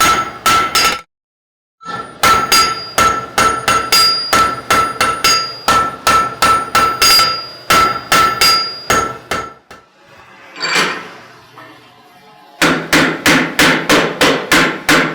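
Hand hammer blows on a hot bar of 1/2-inch square mild steel being forged into a skull, each strike ringing. The blows come at a steady pace of about three a second, stop briefly with a softer noise, then resume faster near the end at about four a second.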